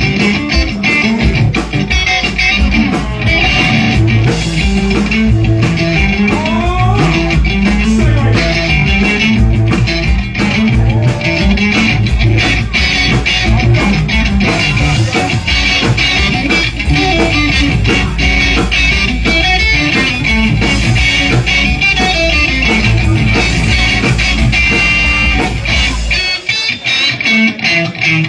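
Live blues-rock band playing an instrumental passage: electric guitar lead over bass guitar and drums. Near the end the bass and drums drop out, leaving the guitar alone.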